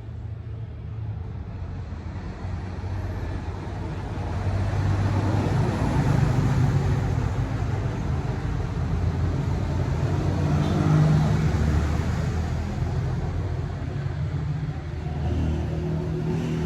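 Motorcycle engine running on the road with wind and road noise, getting louder a few seconds in, its low hum shifting in pitch as the speed changes.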